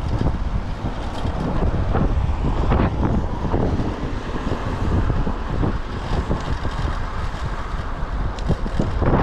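Typhoon wind buffeting the microphone, a loud rough rumble that surges and eases in gusts.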